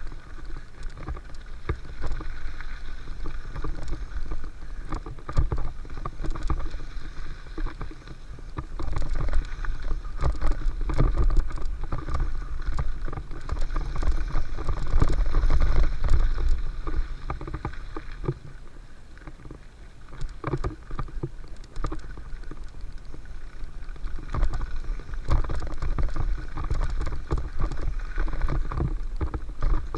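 Mountain bike riding down a dirt trail: wind rumbling on the microphone, with tyre noise and the bike rattling and knocking over bumps. It eases off briefly about two-thirds of the way through, then picks up again.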